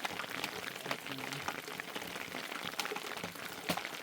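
Rain falling: a steady hiss with many sharp, irregular ticks of drops striking.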